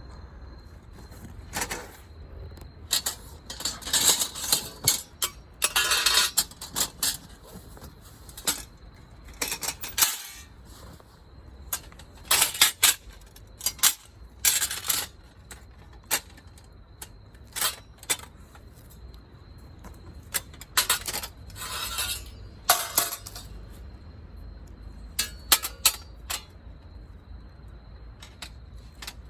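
Metal camping gear being handled: irregular clinks, clatters and rattles of metal pieces knocking together, in bursts, some short and some lasting about a second.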